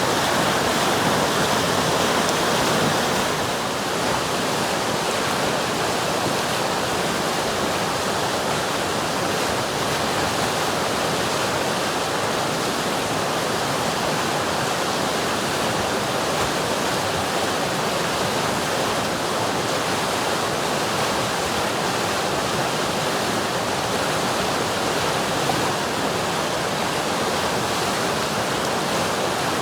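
River water rushing and burbling as a steady, even noise.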